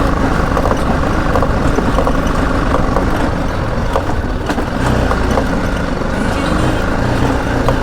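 BMW G 310 GS single-cylinder motorcycle engine running steadily while riding, mixed with road and wind noise on a rough, unpaved road.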